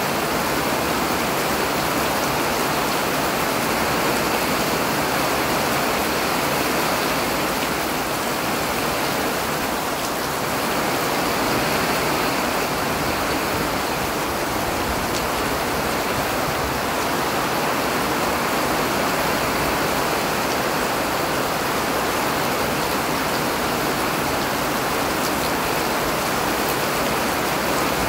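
Rain falling steadily: an even rushing hiss that holds the same level throughout, with faint drop ticks here and there.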